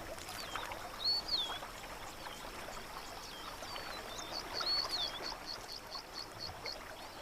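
Birds calling: whistled notes that swoop down in pitch, repeated every second or so, with a quick run of about eight short notes near the middle, over the steady wash of river water.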